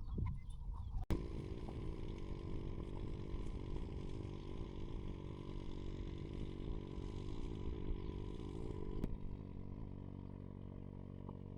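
An engine running steadily at an even pitch, starting abruptly about a second in.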